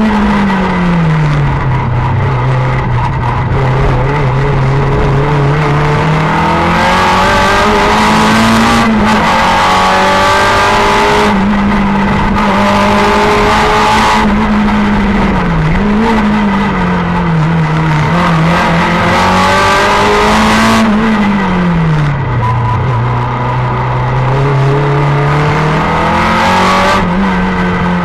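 Simca 1000 rally car's rear-mounted four-cylinder engine, heard from inside the cabin, driven hard. Its pitch climbs steadily under acceleration and drops sharply about a second in, again about sixteen seconds in, and once more around twenty-one seconds in, as the revs fall between pulls.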